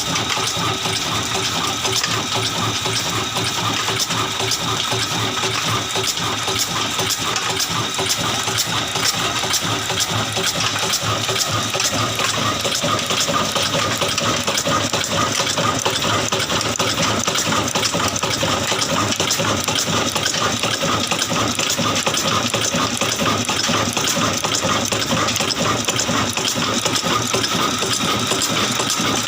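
Old Ruston Hornsby single-cylinder diesel engine running steadily under load, driving a chakki flour mill, with a fast, even metallic clatter that does not let up.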